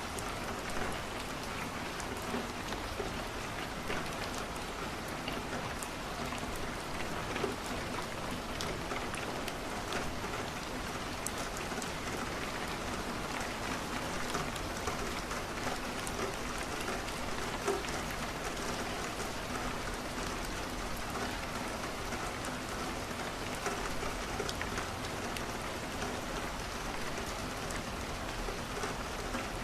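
Steady rain on a window mixed with a crackling wood fire: an even hiss with many small scattered ticks and crackles.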